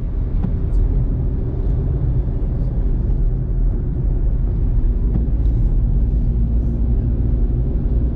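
Steady low road and engine rumble inside a moving car's cabin, with a faint steady hum joining about five seconds in and a few faint scattered ticks.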